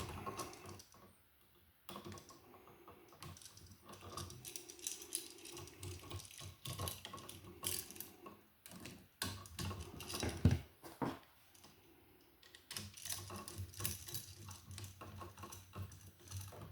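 Screwdriver tightening the terminal screws on a wall receptacle: a run of small irregular clicks and scrapes.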